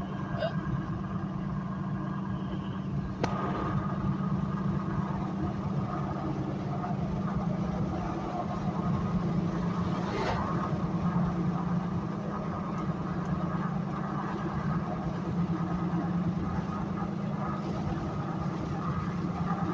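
Steady low drone of a vehicle engine idling, with a steady chorus of crickets and frogs above it. Two brief sharp clicks about three and ten seconds in.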